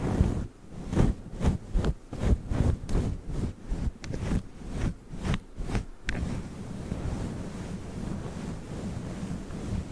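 Fluffy furry microphone cover being rubbed and brushed right on the mic, giving muffled whooshing rubs about two or three a second, which settle into a steadier low rustle about six seconds in.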